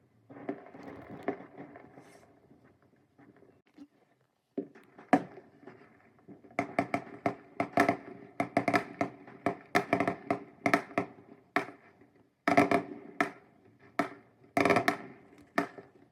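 Fireworks going off: a few scattered cracks, then from about six seconds in a rapid, irregular run of sharp bangs and crackles with a short echo after each.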